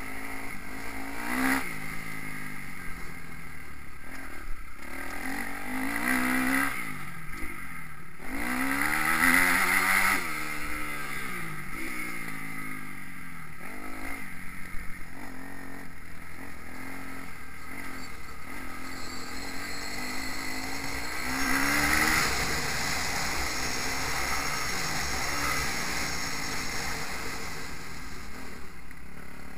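Kawasaki KX250F four-stroke single-cylinder motocross bike revving up and down hard through the gears, its pitch climbing and dropping over and over with short breaks at the gear changes. Wind rumbles on the microphone underneath.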